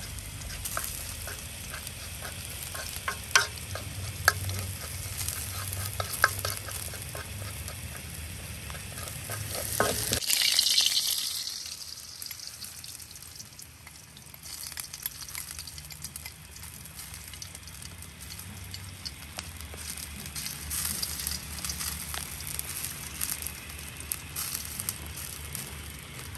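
Sliced onion sizzling in hot oil in a steel wok, with a metal spoon stirring and clinking sharply against the pan a few times. About ten seconds in, a loud burst of sizzling as egg goes into the hot oil, fading over a few seconds into quieter, steady frying.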